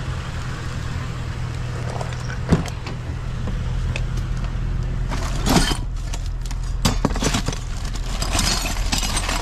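Small metal parts and scrap hardware clinking and rattling as they are rummaged through in a box, in scattered clatters, over a steady low hum.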